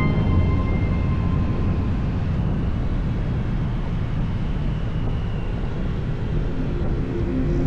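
Kawasaki Z900 inline-four motorcycle engine running while riding, under a steady rush of wind noise.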